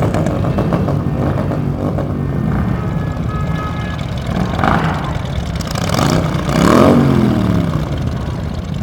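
A group of Harley-Davidson V-twin motorcycles with loud pipes running and being revved. Revs swell and fall a few times, the loudest about seven seconds in.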